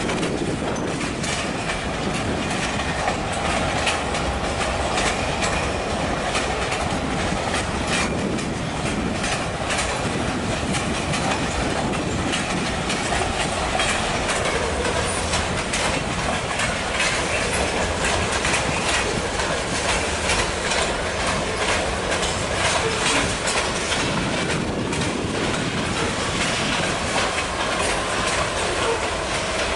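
A train rolling past, its wheels clicking steadily over rail joints with a continuous rumble of cars on the track.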